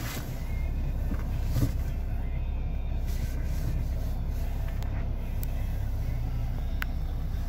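A Ford car's engine idling just after start-up, heard from inside the cabin as a steady low hum, with a few light clicks.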